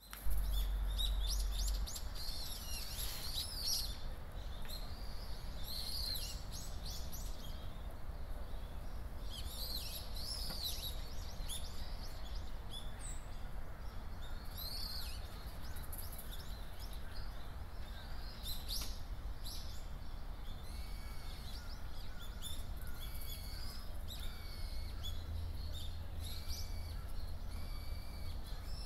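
Birds chirping and singing, many short high calls that sweep up and down in pitch, with a run of short repeated notes in the last third. A steady low rumble lies underneath.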